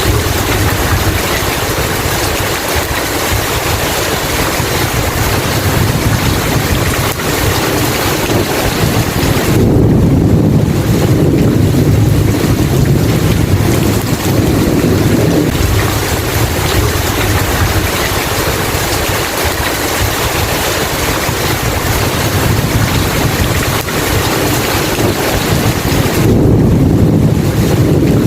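Heavy rain hissing steadily, with low rolling thunder swelling about ten seconds in and again near the end.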